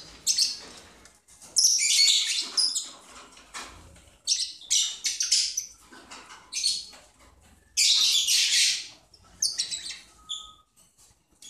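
Lovebirds chattering in repeated bursts of shrill, high-pitched calls with short pauses between, the longest burst lasting about a second around eight seconds in.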